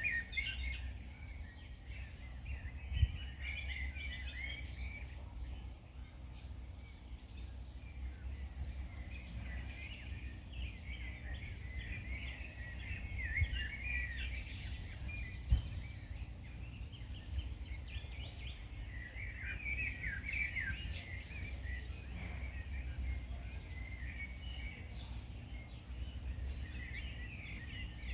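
Several small songbirds chirping and singing over one another, with a steady low rumble underneath and a few soft knocks.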